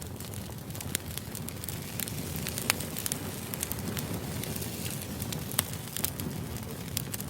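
Split firewood burning in a fire pit: a steady low rush of flame with frequent sharp crackles and pops from the logs, two of them louder, about a third of the way in and a little past the middle.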